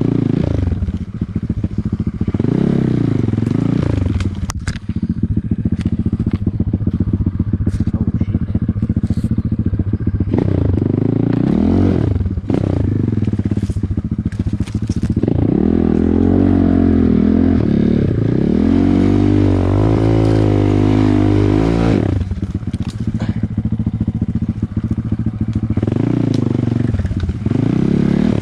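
Off-road motorcycle or quad engine revving up and down with the throttle, held at high revs for several seconds past the middle. Scattered knocks, clatter and scrapes run under the engine.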